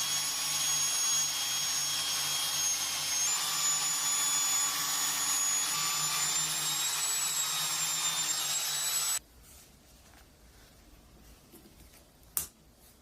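A small high-speed power tool running with a steady high whine and hiss, stopping abruptly about nine seconds in; a single sharp click follows near the end.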